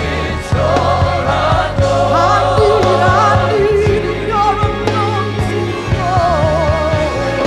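Live gospel music: voices singing long, wavering notes over a band with a steady bass line and drums.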